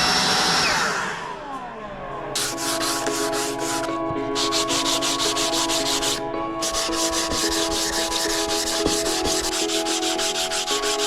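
A power tool spins down over the first second or two. Then a broom sweeps wood shavings in quick scraping strokes, several a second with two short pauses, over steady background music.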